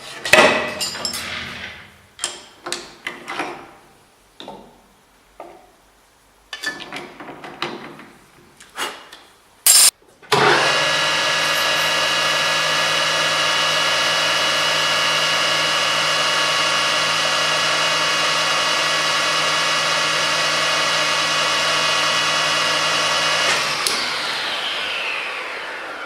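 Metal lathe: about ten seconds of irregular clicks and knocks, then the lathe starts and runs with a steady whine while the end of a metal bar is faced off to length. It is switched off near the end, its whine falling in pitch as the spindle spins down.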